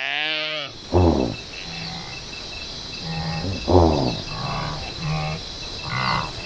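Antelope calling: several low calls with a falling pitch, repeated every second or few, over a steady chorus of crickets.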